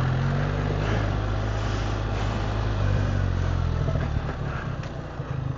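BMW R 1300 GS Adventure's boxer-twin engine running steadily at low revs. About four seconds in, the note drops and turns lumpier and more pulsing, as the throttle comes off.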